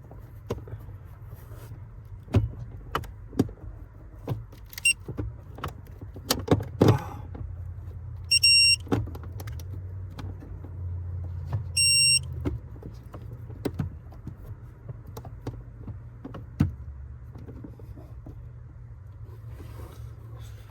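A digital torque wrench working a bolt: scattered ratchet clicks and tool knocks, with two short electronic beeps from the wrench, about a third of the way in and again just past halfway, the signal that the set torque of 8 ft-lb has been reached. A low steady hum runs underneath.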